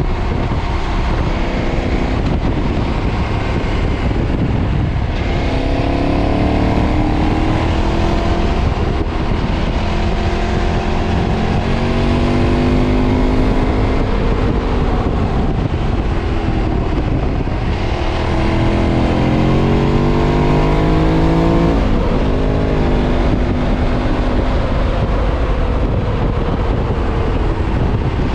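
KTM 990's V-twin engine, stock exhaust, pulling hard under throttle: the revs climb in several rising runs with drops at the gear changes, then fall away about three quarters of the way through. Wind rushes over the microphone throughout.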